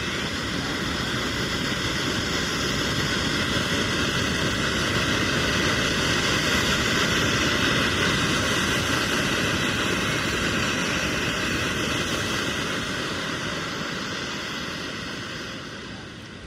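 Ground fountain firework spraying sparks with a steady rushing hiss that swells for several seconds and dies away near the end as it burns out, with no bangs or crackles.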